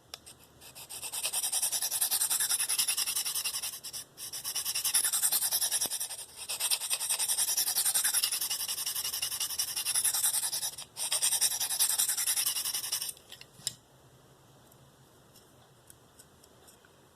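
S30V steel knife edge scraping across the coarse 45-micron side of a DMT Diafold diamond plate in quick sharpening strokes. The scraping breaks off briefly three times and stops about 13 seconds in, leaving a few faint ticks.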